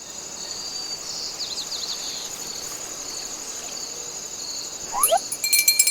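Crickets chirping steadily, with a few short bird chirps. About five seconds in, a fast, even ticking with high ringing tones starts.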